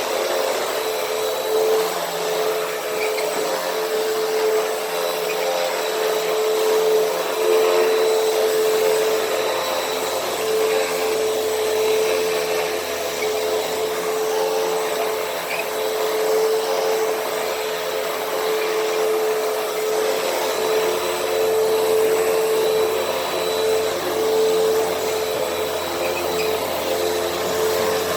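Hoover WindTunnel T-Series upright vacuum running steadily with a constant motor whine, its pitch and level swelling slightly as it is pushed back and forth over carpet.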